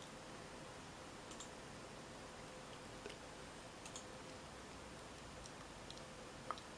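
Faint, scattered clicks, about six over several seconds, the loudest near the end, against a steady low hiss with a faint hum.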